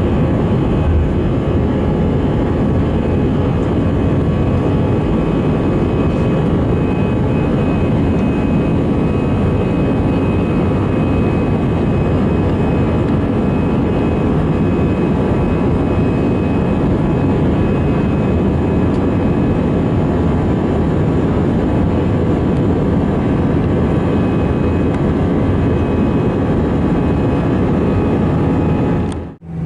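Airbus A319 jet engines and rushing air heard from inside the passenger cabin during the climb after takeoff: a steady, loud rush with a few faint steady whining tones. It cuts off abruptly near the end.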